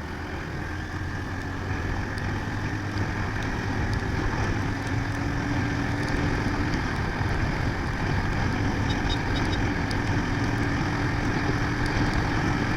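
Motorcycle running steadily at road speed, its engine hum under a steady rush of wind and road noise.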